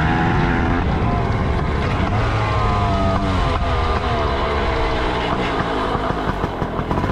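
Dirt bike engine running under way, its pitch falling and rising with the throttle.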